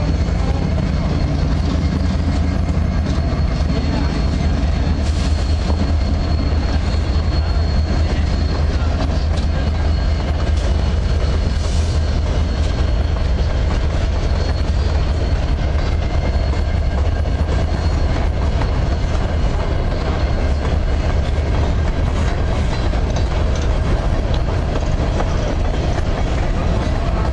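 Freight train cars rolling past close by: a steady, heavy rumble of steel wheels on rail with clickety-clack over the joints. A faint, thin wheel squeal comes in a few seconds in and fades after several seconds.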